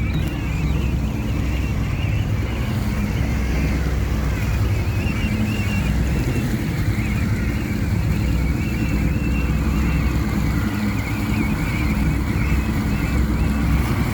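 A boat's engine running steadily at a constant pitch, with a wavering higher hiss above it.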